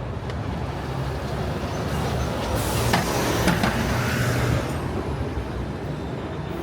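Street traffic with a heavy vehicle's engine running steadily, and a loud hiss of air for about two seconds, starting about two and a half seconds in.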